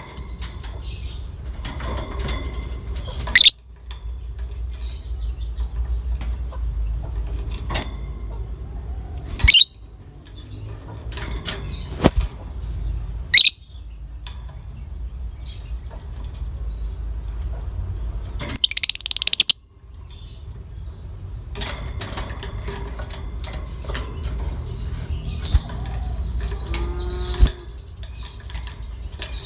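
Lovebird calling: about six short, sharp, shrill calls spaced several seconds apart, with a quick cluster of them near the middle, over a steady background hiss.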